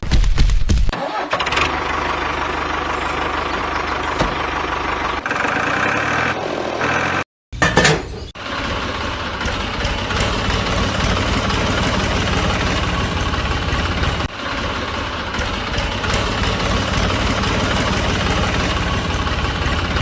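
Tractor engine starting and then running steadily at idle, with an abrupt break of a fraction of a second about seven seconds in.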